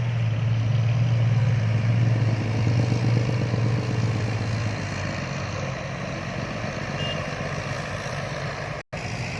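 Diesel dump truck engine running with a deep, steady drone through a loud exhaust, fading about five seconds in as the truck moves away, leaving lower engine noise. The sound drops out for an instant near the end.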